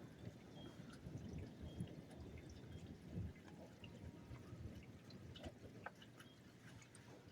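Faint rain falling and dripping, with scattered small drip ticks over a low, even hiss.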